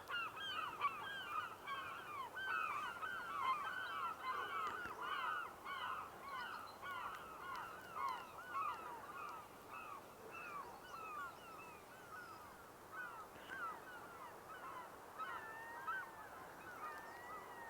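Glaucous-winged gulls calling: a rapid run of short calls, several each second, thinning out after about ten seconds, with a few longer drawn-out calls near the end.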